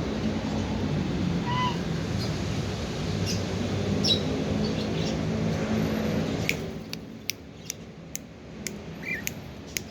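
A steady low hum for the first six or so seconds, with one short cockatiel chirp about one and a half seconds in; then the hum stops and a string of sharp, light clicks follows.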